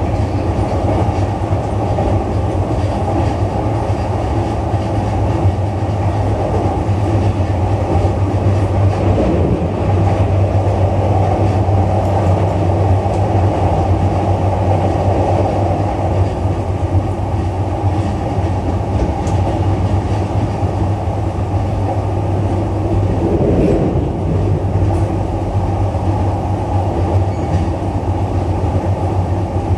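Running noise heard inside a JR East E233-3000 series electric commuter train at speed: a steady low rumble of wheels on rail and running gear.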